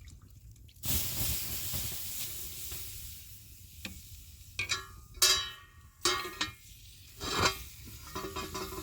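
Food hitting hot oil and sizzling, starting suddenly about a second in and slowly fading, followed by several sharp clinks of a metal utensil against the pan.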